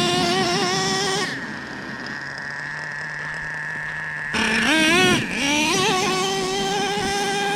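Small two-stroke nitro engine of a Traxxas Revo 3.3 RC monster truck (O.S. .21TM) running at high revs with a wavering pitch, dropping back to idle about a second and a half in. A little past halfway it revs up sharply again and holds high revs to the end.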